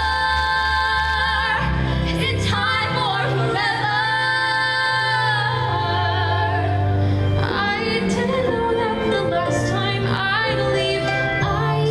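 A woman singing a song with instrumental accompaniment, holding long notes with vibrato over sustained bass notes.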